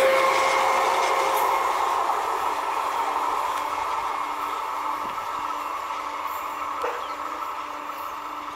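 Suburban multiple-unit passenger train moving away along the track: a rumble of wheels with a steady whine, fading steadily as it recedes.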